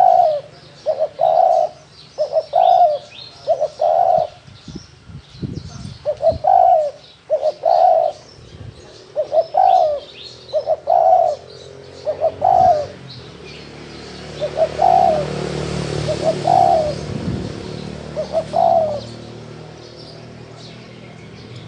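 A wild spotted dove cooing over and over, short coos repeated about once a second, some in quick pairs, stopping near the end. Small birds chirp in the background, and a rushing noise swells and fades about two-thirds of the way through.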